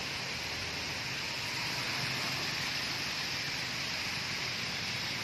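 Steady rushing noise of a car travelling on a wet road in the rain, with a low rumble underneath.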